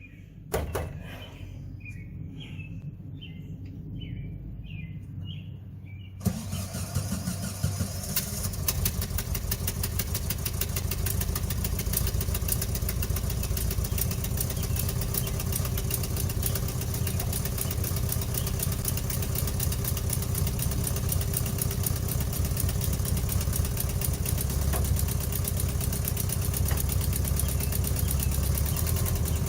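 Air-cooled flat-four engine of a 1968 VW Bus cranking on the starter with evenly repeating pulses, then catching about six seconds in and running steadily.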